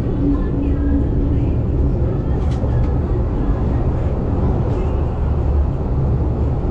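A loud, steady low rumble like a vehicle in motion.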